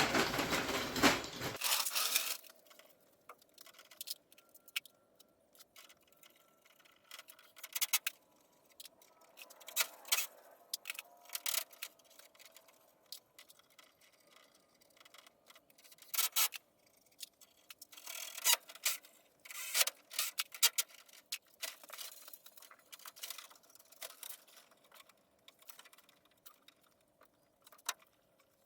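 Hand tools and metal parts clinking and scraping at irregular intervals during brake line work, with clusters of sharp clicks. It opens with a couple of seconds of loud rushing noise that stops abruptly, and a faint steady hum sits underneath throughout.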